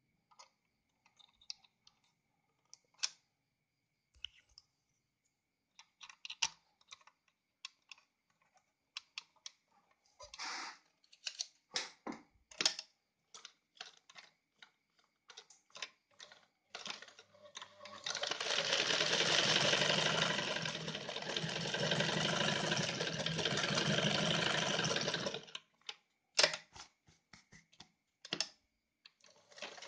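Yamato 673 zigzag sewing machine: a series of scattered clicks and knocks as the machine is handled and a pattern cam is changed. About two-thirds of the way in, the machine runs and sews steadily for about seven seconds, then stops, followed by more clicks.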